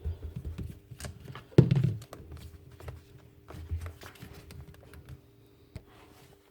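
Handling noises as a jigsaw is worked on at a bench: scattered small clicks and taps of plastic and metal parts, with one louder knock about one and a half seconds in.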